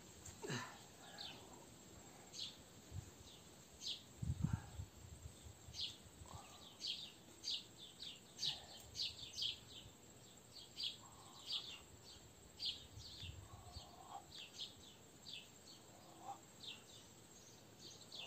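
Birds chirping, many short high chirps in quick, irregular succession, faint. A low thump about four and a half seconds in.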